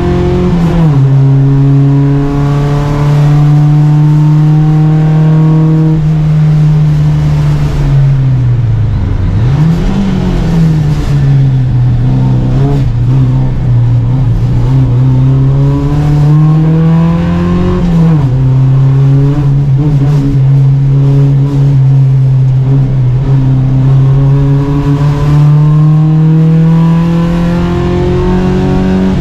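Volvo Amazon 121 race car's four-cylinder engine heard from on board, running hard at racing speed. Its pitch climbs in long pulls through the gears, drops sharply at shifts, and swings quickly down and back up a couple of times.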